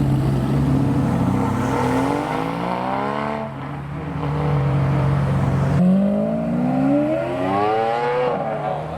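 Supercar engine accelerating away in two long pulls, rising in pitch each time and then dropping back, with a steady lower engine note in between.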